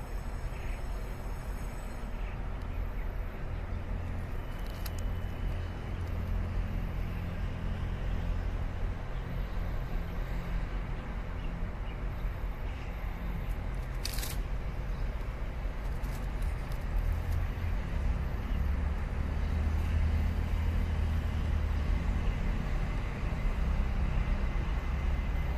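Low, steady rumble of trains and locomotives at a railway station, growing a little louder in the second half as a locomotive-hauled train slowly approaches. A single short sharp click comes about halfway through.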